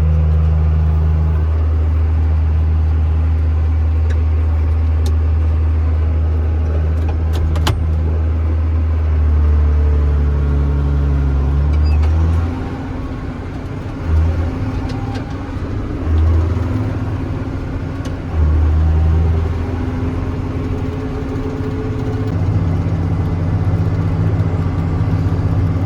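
Tractor's diesel engine running steadily under load. About halfway through it eases off and picks back up three times in quick succession, then settles back to a steady run.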